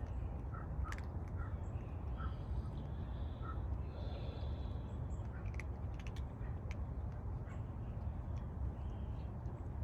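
Scattered short animal calls over a steady low rumble, with a few sharp clicks.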